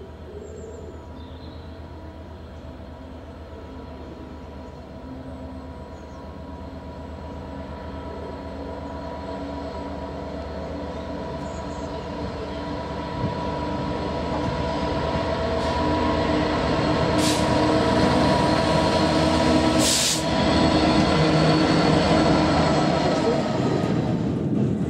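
Class 66 diesel-electric locomotive moving slowly on the line, its two-stroke V12 diesel engine growing steadily louder as it draws near. There are a few sharp knocks in the second half.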